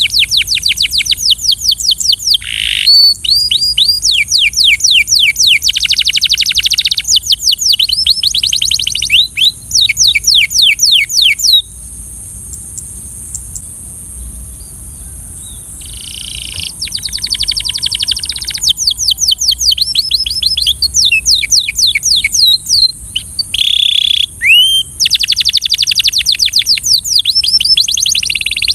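Belgian canary singing: long, fast trills of repeated downward-sweeping notes that change from one rolling phrase to the next. The song breaks off for about four seconds midway, then starts again. A steady high hiss runs underneath.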